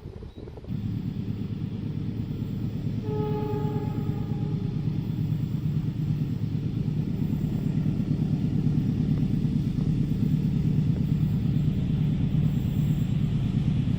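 A train rumbling past at speed, its low rumble starting abruptly under a second in and holding steady, with a short horn blast about three seconds in.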